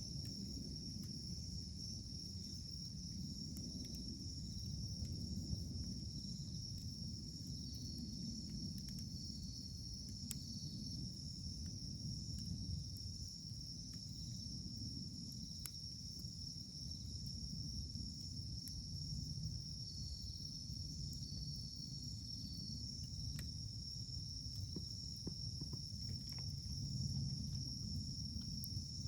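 Wood campfire burning, with scattered sharp crackles and pops over a low rumble. Insects chirr steadily in a high drone throughout.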